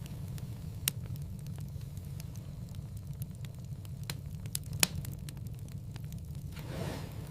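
Wood fire crackling in a fireplace: a steady low rumble of flames with many small crackles, and two sharp loud pops, about a second in and just under five seconds in.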